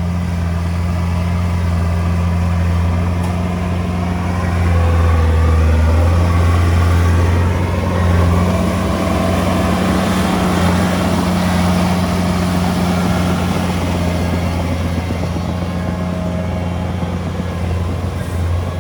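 Diesel engine of heavy earthmoving equipment running steadily under work, a little louder for a few seconds about five seconds in.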